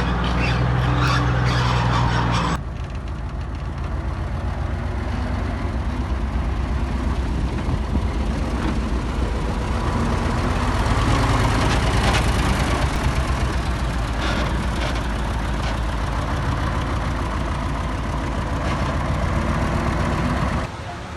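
Heavy diesel engine of earthmoving machinery running steadily, with an abrupt change about two and a half seconds in to a rougher, fast-pulsing engine sound that continues until a sudden drop near the end.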